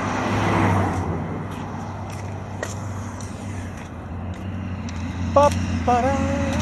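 Steady car road noise, with a vehicle passing and swelling up about half a second in. A person's voice comes in briefly near the end.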